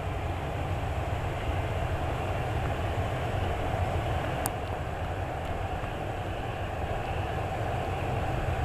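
Steady drone of aircraft engines and airflow heard from inside the aircraft, a low rumble under an even rushing noise, with a single sharp click about four and a half seconds in.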